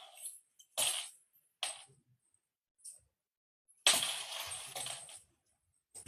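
A cat toy rattling in short bursts as cats bat at it: a few quick rattles in the first three seconds, then a longer spell of rattling lasting over a second about four seconds in.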